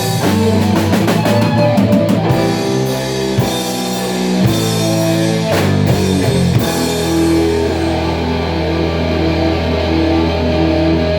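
Live rock band playing: drum kit and distorted guitar with bass, the drums stopping about six and a half seconds in while the guitar and bass hold a long sustained chord.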